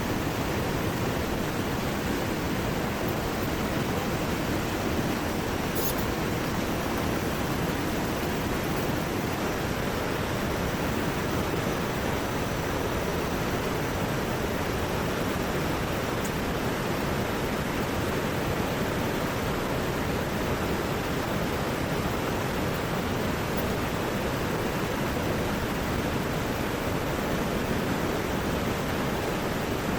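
Heavy rain and a rushing river together, making a steady, unbroken rush of water.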